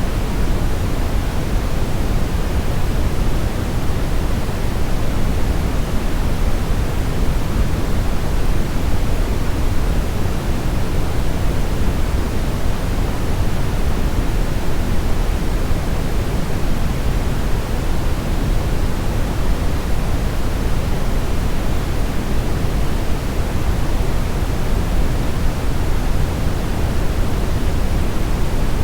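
Steady brown noise: an even, unbroken hiss weighted heavily toward the deep low end, thinning out in the highs.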